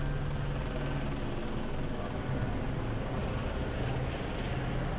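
City street traffic noise: a steady engine drone with a low hum over a wash of traffic.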